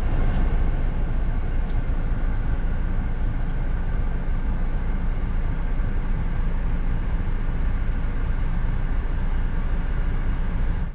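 Steady vehicle noise heard from inside a car: a low rumble with a hiss above it.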